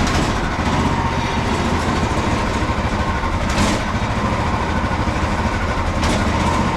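Frontier OS27 portable bandsaw mill running steadily at full power, its engine driving the blade through a larch log, with a brief louder rush of hiss twice.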